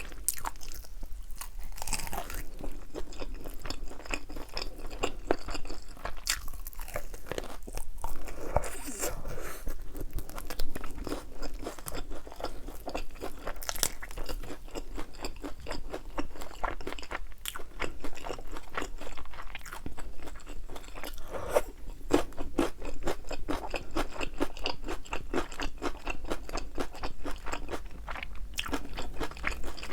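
Crunching and chewing of thin, crispy-battered fried chicken wings, a dense irregular run of crisp crackles throughout.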